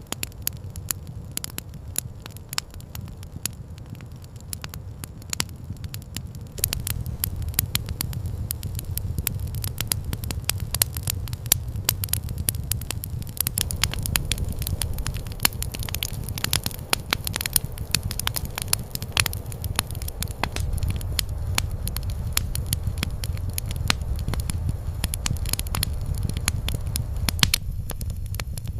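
Campfire crackling, with many sharp pops and snaps over a low steady rumble; the crackling grows louder and busier about seven seconds in.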